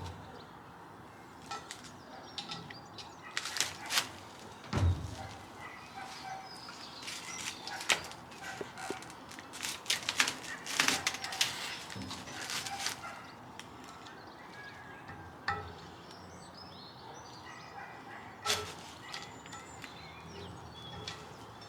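Irregular metallic clicks, taps and knocks, with one heavier thump about five seconds in, as the key is worked out of the keyway on the stern-gear shaft.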